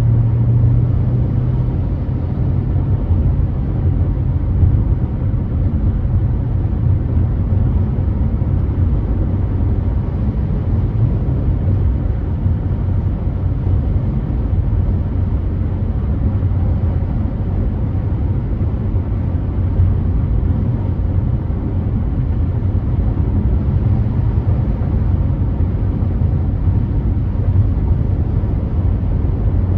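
A car driving at freeway speed: a steady low rumble of road and engine noise that holds without change throughout.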